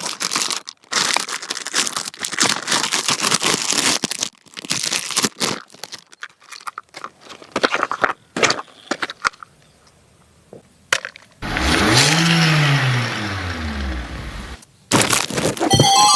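Packaging being handled while a toy is unboxed: dense crinkling, crackling and tearing with scattered clicks. About twelve seconds in comes a loud, drawn-out pitched sound that rises and then falls in pitch for about three seconds.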